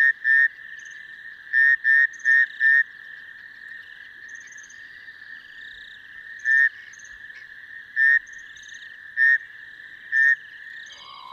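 Male rain frogs calling: short, loud, rapidly pulsed chirps, a few in quick runs early on and then single calls spaced a second or more apart, over a steady high-pitched hum.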